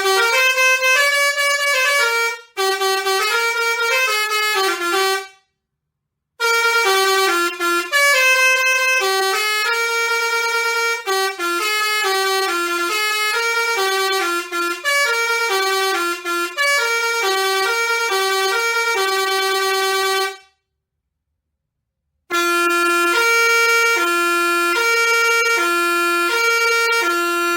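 A tune played note by note in a bright, horn-like tone, like a musical vehicle horn. It stops twice, briefly, and then carries on.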